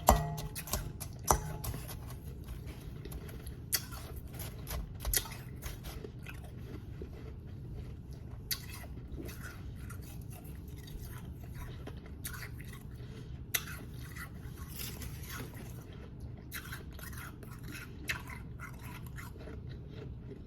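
Close-up chewing and crunching of powdery snow ice: a quick run of sharp crackles near the start, then scattered crisp crunches over a steady low hum.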